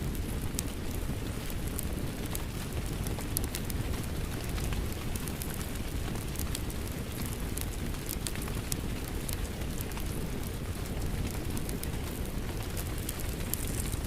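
Crackling wood fire layered with steady rain: a continuous low rumble and hiss, with frequent sharp crackles and pops.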